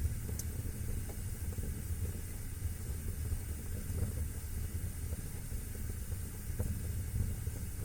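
Fire burning in a fireplace: a steady low rumble and hiss of flames, with a few faint crackles, one just after the start and one near the end.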